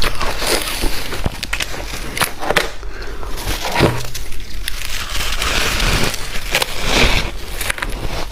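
Close-miked crunching of white ice being chewed: an uneven run of sharp crunches and crackles.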